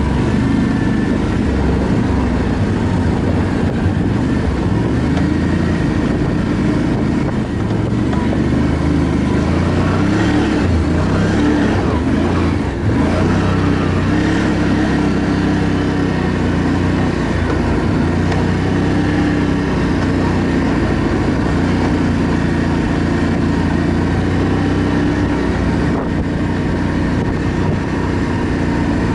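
ATV engine running under way, its pitch rising and falling a little with the throttle.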